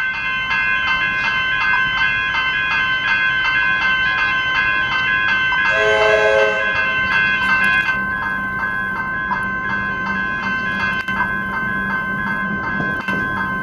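Railway level-crossing bells ringing with a steady, repeated strike. A short horn blast sounds about six seconds in, and a low rumble from a train follows.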